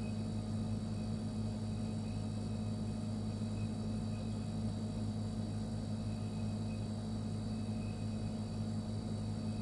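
Refrigerator running with a steady low hum and faint higher tones above it, unchanging throughout.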